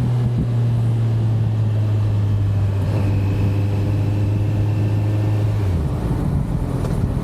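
Kawasaki Z900 inline-four motorcycle engine running at a steady, held engine speed with a strong even drone. Near the end the drone drops away into a rougher, lower sound.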